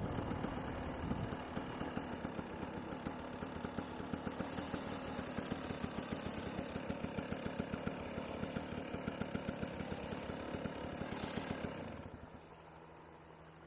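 Dirt bike engine idling with an even pulsing beat, then dropping away about twelve seconds in, leaving a faint steady hum.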